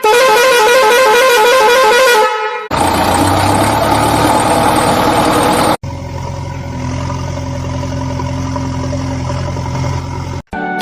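Vehicle horn and engine sound effects in edited pieces: a warbling horn for about two seconds, then engine-like running with abrupt cuts, once near three seconds and again near six, and a sudden stop just before the end.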